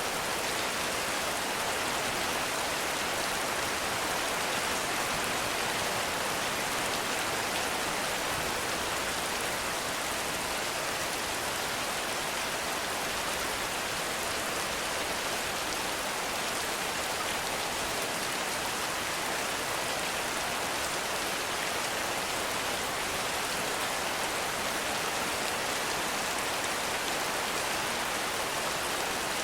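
Heavy rain falling steadily, an even hiss of countless drops with no thunder or other sounds standing out.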